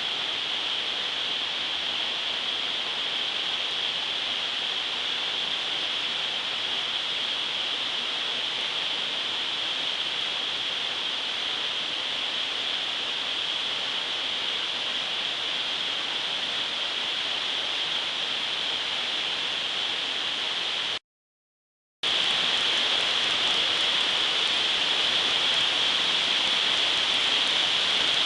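Waterfall rushing steadily: an even roar of falling water. It cuts out completely for about a second near the end, then comes back slightly louder.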